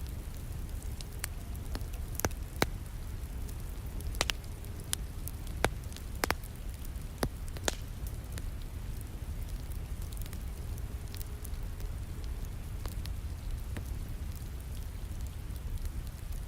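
Wood fire crackling in a fireplace, with sharp pops that come thick in the first half and thin out later, over a steady wash of rain.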